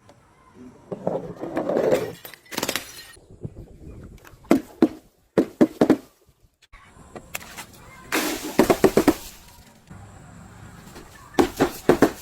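Objects being crushed and broken: several short bursts of sharp cracking and crunching, the longest about eight seconds in.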